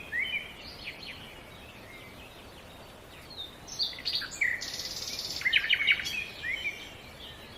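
Songbirds singing: short rising chirps and quick trills, sparse at first and busier in the second half, with a buzzy trill about halfway through, over a low steady hiss.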